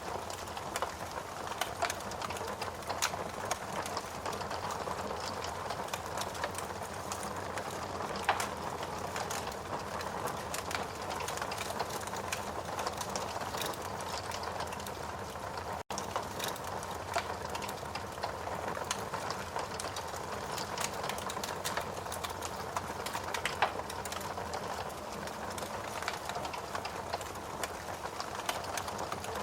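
Wood fire burning in a fireplace: a steady hiss with dense crackling and frequent sharp pops from the burning wood, broken by a split-second gap about halfway through.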